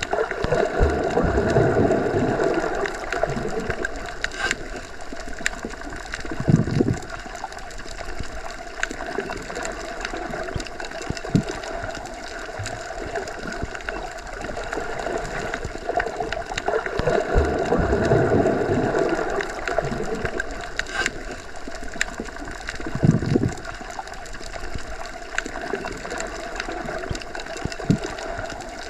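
Underwater ambience: a muffled, steady water rush with a constant hum, scattered clicks and gurgling. The low rumble swells twice, about 16 seconds apart, each swell followed a few seconds later by a low thud.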